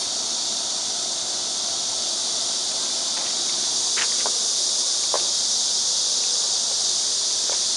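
A steady high hiss, with a few faint short clicks over it, from the stud welding gun's electromagnet pulling and releasing.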